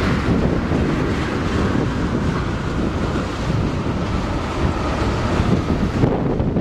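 CSX freight train passing close by: a steady rumble of wheels on rail, with wind buffeting the microphone.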